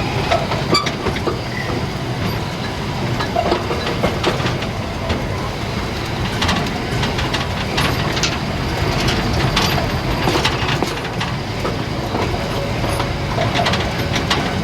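Narrow-gauge steam train running steadily, with rumble of the wheels and carriages and scattered clicks and knocks over the rail joints.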